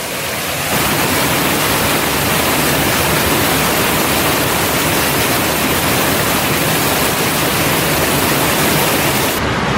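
Steady, loud rushing noise with no distinct events; the highest part of the hiss drops away abruptly near the end.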